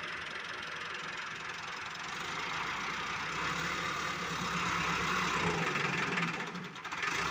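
Tractor engine running, growing louder through the middle for a few seconds, then easing off briefly near the end.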